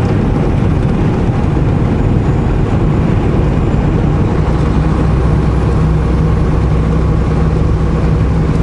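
Semi-truck engine and road noise heard inside the cab while driving, a loud steady low drone that settles into a more even hum about halfway through.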